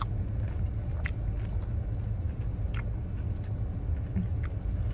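Eating and chewing mouth sounds, with a few short wet clicks, over a steady low rumble inside a parked car.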